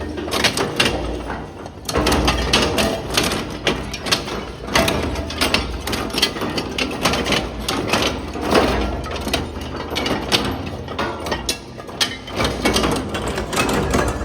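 Heavy-duty industrial metal shredder crushing engine blocks: a dense, irregular run of clanks and cracks of breaking metal over the steady low rumble of the running machine.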